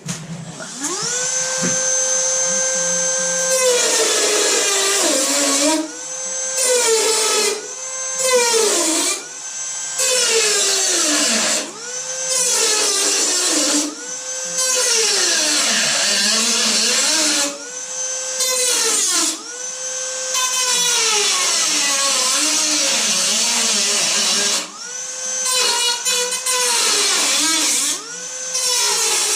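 Dremel rotary tool spinning up to a steady high whine, then cutting back a patch in a steel door skin. Its pitch sags each time it bites into the metal and recovers as it is eased off, over and over, about once every second or two.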